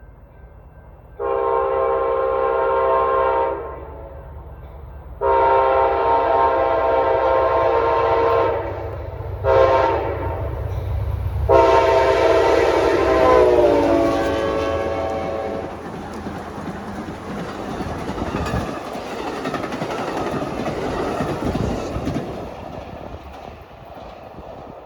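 Amtrak passenger train's locomotive horn sounding the grade-crossing signal: long, long, short, long. The pitch drops during the last long blast as the lead engine passes. Then comes the rumble and rhythmic wheel clatter of the multi-locomotive consist going by, fading near the end.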